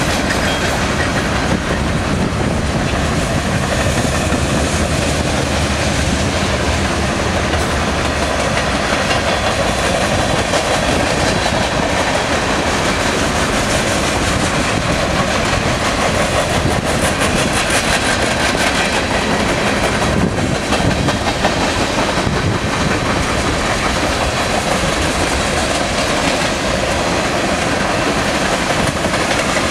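Freight cars of a BNSF train rolling steadily past, their wheels clicking rhythmically over the rail joints. Wind buffets the microphone.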